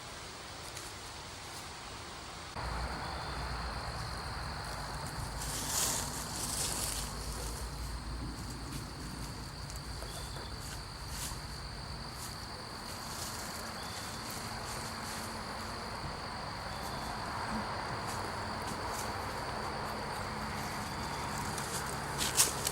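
Insects trilling in one unbroken high-pitched tone over the even rushing of the stream and falls, with the level jumping up about two and a half seconds in.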